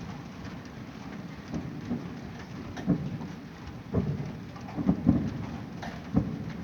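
Distant fireworks heard from nearly 4 km away: a series of dull, irregular booms over a low rumble, blurred by the distance so that they sound like thunder.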